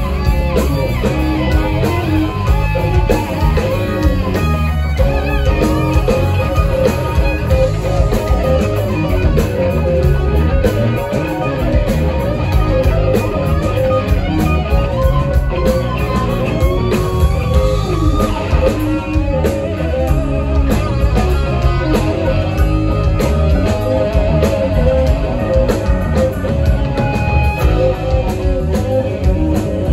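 A live rock band playing, with electric guitar to the fore over drums and bass.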